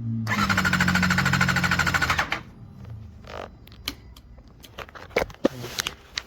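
Motorcycle starter cranking the engine for about two seconds with an even, rapid pulsing, without the engine catching, then a few scattered clicks. Cranking but no start is the sign that fuel or spark is missing.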